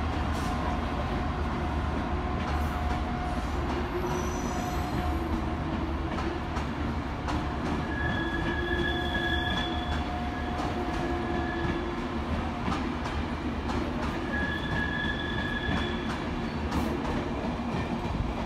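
Diesel-hauled Enterprise train pulling out, with a steady low rumble of the locomotive and rolling coaches. Wheel squeal on the curve rings out twice, about eight seconds in and again near fifteen seconds.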